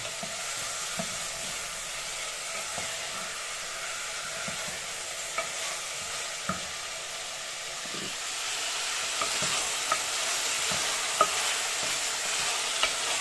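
Chopped onion, tomato and pepper sizzling as they fry in hot oil in a pot, growing a little louder about eight seconds in, with scattered small clicks.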